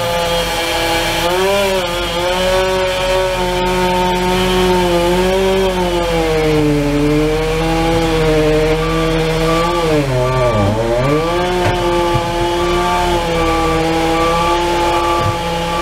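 Two-stroke chainsaw running at high revs through a cutting job, its engine pitch wandering up and down and sagging sharply about ten seconds in before recovering.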